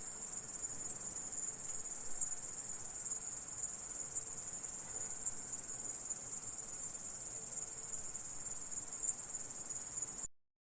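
Grasshopper stridulating: a steady, continuous high-pitched trill that stops abruptly near the end.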